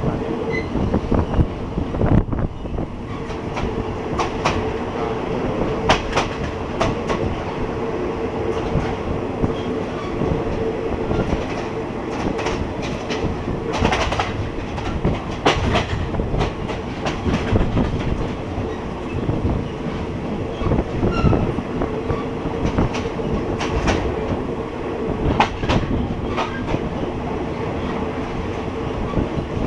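Passenger train running along the track, its wheels clacking over rail joints at an irregular pace over a steady rumble and hum.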